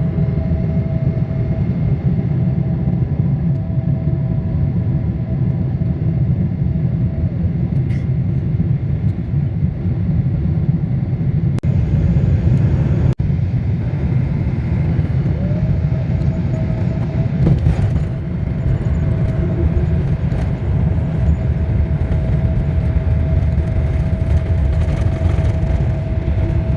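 Airliner cabin noise: a steady low rumble with a faint steady whine that fades out about seven seconds in and comes back about fifteen seconds in.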